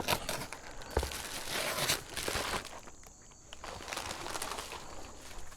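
Crinkling and rustling of handled material in two stretches, with a single knock about a second in. A steady high insect trill, crickets, runs underneath.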